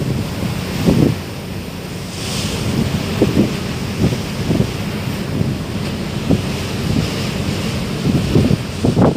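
Wind gusting against the microphone aboard a car ferry at sea, over a steady low rumble of the ship and the water.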